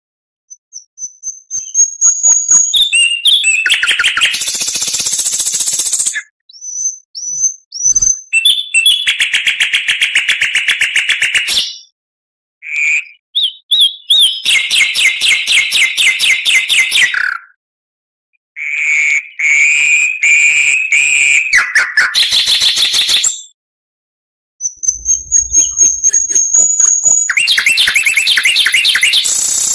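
Oriental magpie-robin (kacer) singing in loud bursts of clear whistles and fast rapid-fire runs of repeated notes, with short silent gaps between phrases.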